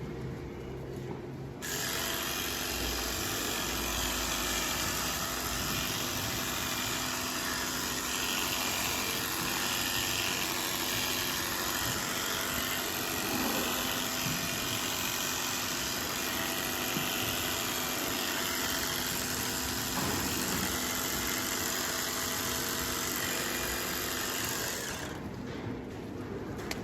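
A motor-driven machine or power tool running steadily with a dense, hissing mechanical noise. It starts abruptly about a second and a half in and cuts off a couple of seconds before the end.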